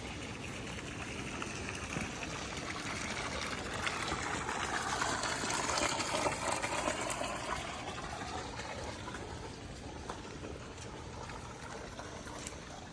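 Floodwater running: a steady rush of water that swells louder about halfway through and then eases off.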